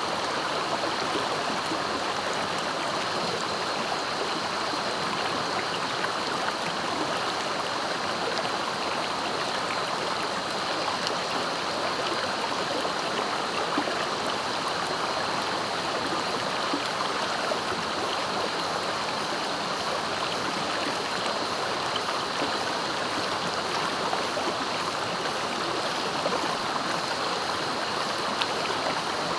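A clear, fast-flowing river rushing steadily over its bed.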